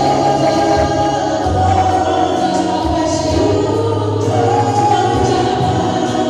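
Choir singing gospel music, held sung notes over a steady bass accompaniment.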